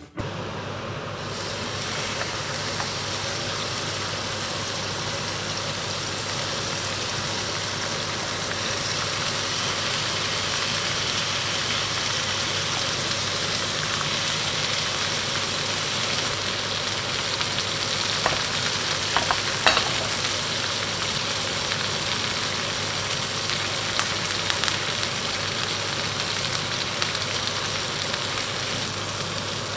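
Pork steaks sizzling in hot oil in a nonstick frying pan: a steady frying hiss, with a few light clicks about two-thirds of the way through.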